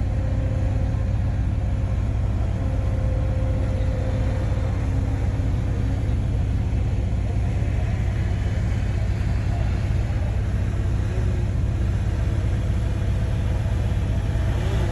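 Heavy earthmoving machinery's diesel engine running steadily: a deep, even rumble with a faint hum over it.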